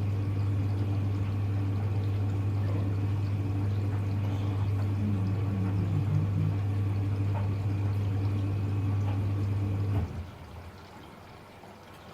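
Hoover Electra front-loading washing machine filling with water: a steady hum with water pouring into the drum, which cuts off suddenly about ten seconds in.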